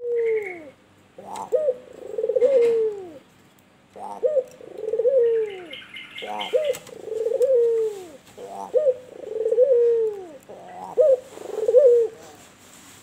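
White albino puter turtle dove cooing, repeating a two-part call about five times: a short note, then a longer rolling coo that falls in pitch.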